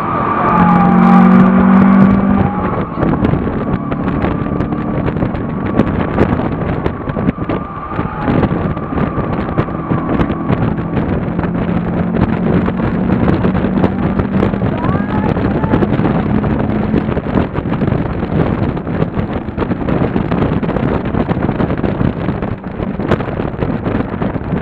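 Mazda MX-5 NB's 1.6-litre four-cylinder engine, breathing through a BMC CDA air intake, running hard at track speed, heard from inside the cabin over loud wind and road noise. The engine note steps up and down as the revs change and is loudest about a second in.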